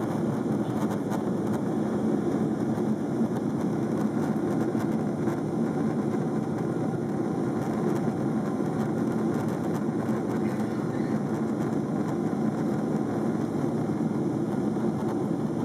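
Steady engine and airflow noise of a jet airliner, heard inside the passenger cabin in flight; an even, unchanging drone.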